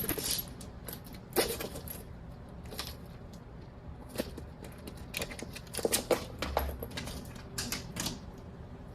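Scattered light clicks and small clatters, irregular and a second or so apart, over a faint low hum of room tone.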